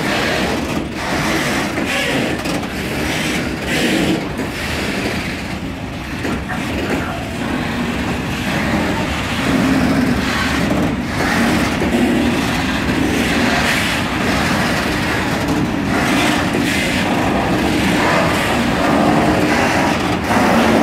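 Open-top freight wagons of a slow freight train rolling past, the wheels knocking and clattering over the rails again and again.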